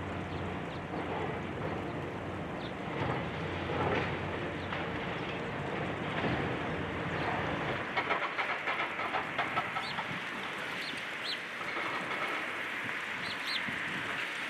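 Demolition machinery at work: a heavy engine hum that fades about seven seconds in, then a rapid rattling clatter with a few short high squeals, typical of an excavator breaking up a building and debris falling.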